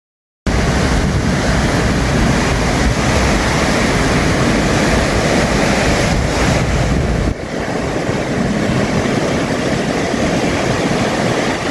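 Ocean surf rushing and breaking, with heavy wind buffeting on the microphone. It starts abruptly about half a second in, and the low wind rumble eases about seven seconds in.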